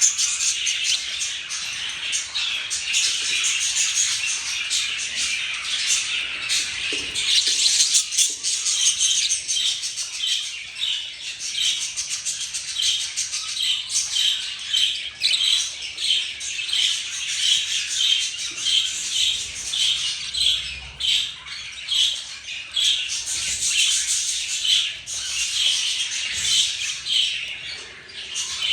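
Budgerigars chattering: a continuous run of short, high chirps and squawks, settling in the second half into a quick regular series of about two chirps a second.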